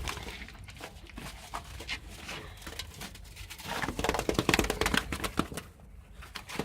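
Scuffling and rapid clicking as a bird is held in the hand and its feet are handled, with a dense burst of quick ticks from about four to five and a half seconds in.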